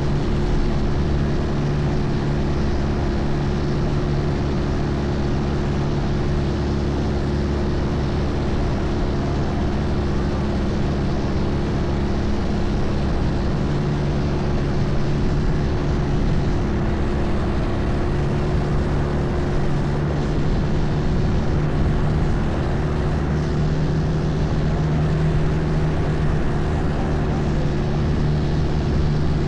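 Long-tail boat engine running steadily at a constant speed, a low drone with a steady rush of noise over it.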